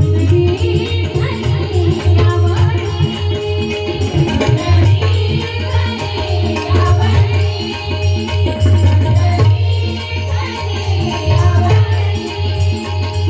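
Instrumental passage of a Marathi abhang: pakhawaj drumming in a steady rhythm under a sustained melody line, with jingling hand percussion throughout.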